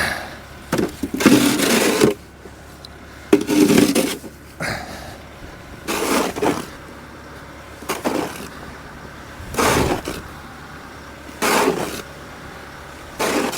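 Snow shovel scraping across pavement and lifting snow, about seven strokes at a steady pace of roughly one every two seconds, with a steady low hum underneath.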